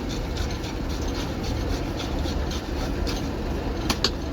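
Steady machinery rumble with a faint, regular clatter about three to four times a second, and two sharp clicks close together near the end.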